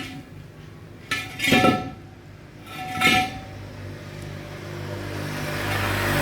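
Metal clanking twice, with a short ringing after each strike, over a steady low hum; after that a hiss-like noise swells steadily.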